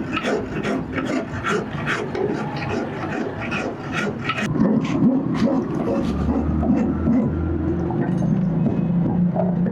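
Rhythmic rasping strokes of a hand tool worked back and forth on steel, about two to three strokes a second. About halfway the strokes give way to a steadier, lower sound with a hum.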